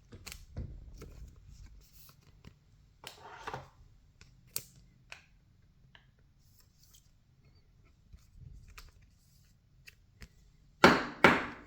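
Baseball trading cards being handled and flipped through: scattered light ticks and soft rustles of card stock, with two short, louder swishes close together near the end.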